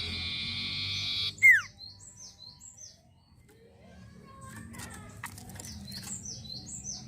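Sirtu (cipoh) songbird singing. It opens with a sustained buzzy trill, gives one loud downward-swooping whistle about a second and a half in, then short chirps in two clusters with a brief pause between them.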